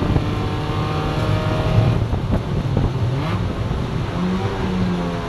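Mazda Miata race car's four-cylinder engine, heard from inside the cockpit, pulling steadily on the throttle down a straight. About two seconds in the note breaks up as the driver lifts off and brakes hard for the corner, with a brief rise in revs near the end.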